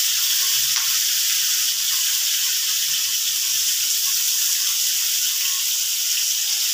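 Stir-fry sizzling steadily in a wok over a gas burner: an even, loud hiss of oil and moisture frying.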